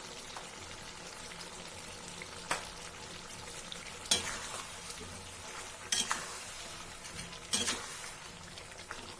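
Chicken and tomatoes sizzling in a kadai while a spatula stirs them, knocking against the pan four times.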